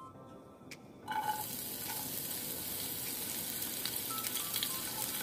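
Chopped green chilies dropped into hot oil in a small pan: a sizzle starts about a second in and carries on steadily as a wooden spatula stirs them.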